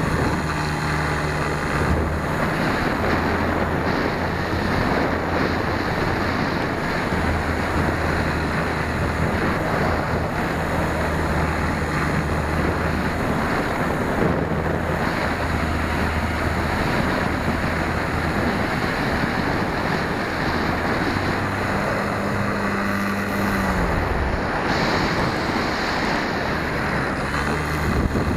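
Wind rushing over the microphone of a keychain camera mounted on the tail of a flying RC model plane, over the low drone of its brushless electric motor and propeller. The drone shifts in pitch several times as the throttle changes and drops away briefly about 23 seconds in.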